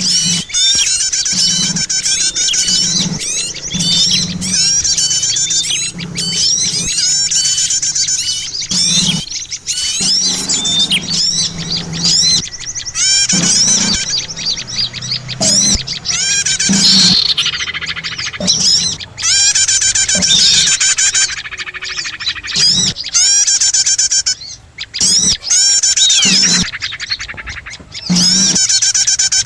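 Small-bird lure call (suara pikat): many small birds chattering together in a dense run of rapid, high chirps and trills, repeated over and over without a break.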